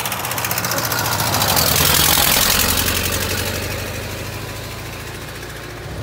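1928 Ford Model A's flathead four-cylinder engine driving past on the road. It grows louder to a peak about two seconds in, then fades as the car moves away.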